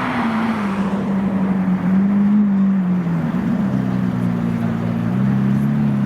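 Car engine running at low revs: a steady low drone that dips slightly in pitch about a second in and wavers a little after that.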